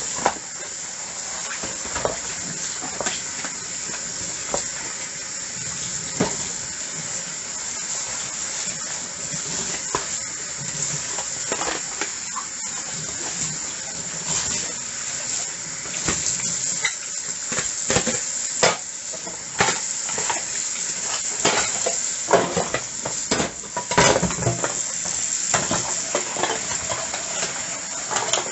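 Dishes being washed by hand in a sink: a steady hiss under frequent clinks and knocks of plates and utensils, which come more often and louder in the second half.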